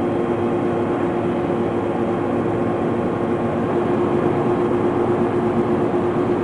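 Laser cutting machine running: a steady hum with an even rushing of air from its air assist and vacuum-table fume extraction, unchanged throughout.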